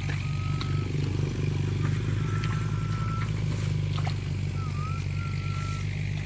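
A small engine running steadily with a low, even drone, with several short high whistled tones over it and a few light clicks.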